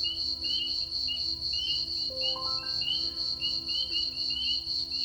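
Crickets chirping in a steady, pulsing high trill, with soft background music of sustained low notes and a rising run of held notes about two seconds in.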